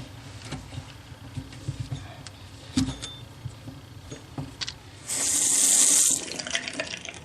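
Scattered clicks and knocks of handling, then the newly refitted bathroom faucet is turned on about five seconds in and water runs hard into the sink for about a second before it is shut off.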